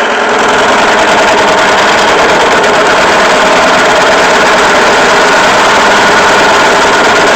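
Drill press running under heavy load as its bit cuts into pipe: a loud, steady motor whir mixed with grinding, the machine straining.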